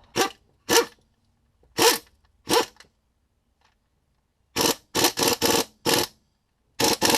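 Short rasping bursts of metal being worked with hand tools on a sway bar end link. There are two pairs early on, then a quick run of about five, then two more near the end.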